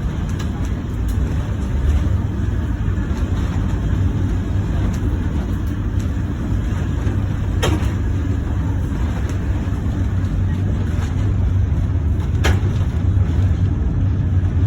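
Steady low rumble of a streetcar running along its track, heard from on board. Two sharp clicks stand out, one about eight seconds in and one about two seconds before the end.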